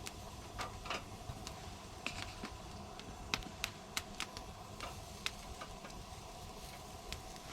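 Scattered light clicks and crackles at an irregular pace over a low steady background.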